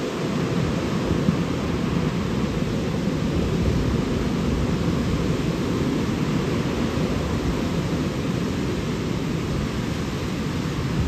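Steady rush of fast-flowing river water, an even, unbroken noise heaviest in the low range.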